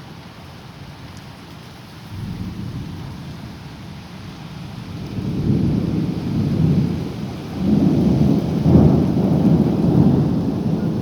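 Thunder rumbling in a rainstorm over a steady hiss of rain. The rumble swells in waves and is loudest in the second half.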